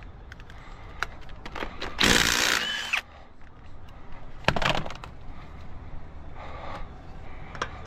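Power tool, such as an impact wrench, run in two short bursts during a wheel change, the first about two seconds in and a shorter one a little later, with clicks and knocks of tools between.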